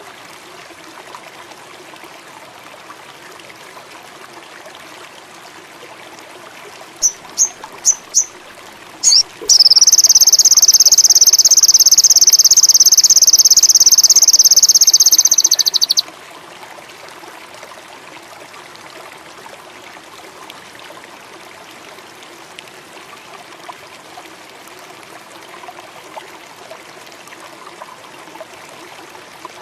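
Indigo flycatcher (sogon) song: four short high chirps, then a loud, high, unbroken trill of about six seconds that cuts off suddenly, over a steady background of running water.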